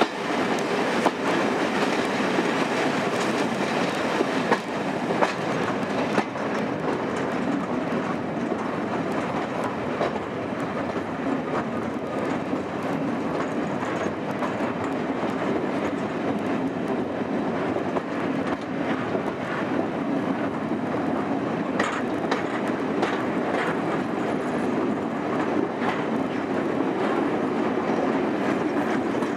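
Passenger train running along the track, heard from an open coach window: a steady rumble of wheels on rail, broken by irregular clicks as the wheels pass over rail joints.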